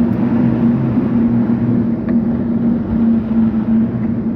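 Loud, steady road and vehicle noise heard while riding, with a constant low hum from a running engine.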